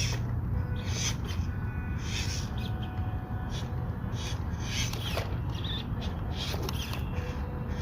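Small RC crawler truck driving slowly over rock: a steady drone from its little brushed 260 electric motor and gearbox, with repeated short scrapes and crunches as the tyres grip and slip on the rocks.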